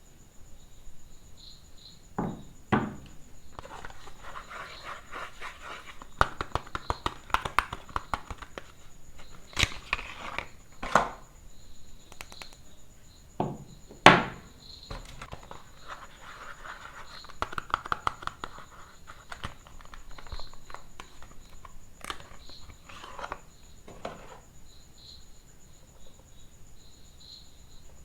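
Soap bars being unwrapped by hand: their wrappers crinkle, scratch and tear, with a handful of sharp knocks spread through.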